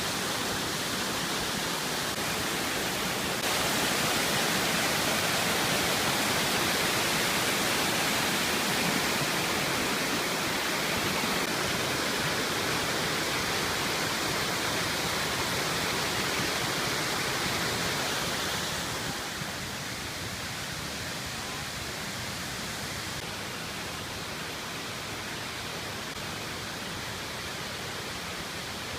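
Waterfall rushing, a steady wash of falling water close by; it grows louder about three seconds in and drops back down later on.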